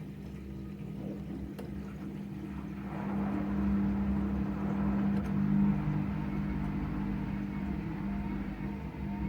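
Whirlpool AWE6316 washing machine running in its test mode: a steady motor hum with a rushing noise over it, growing louder about three seconds in.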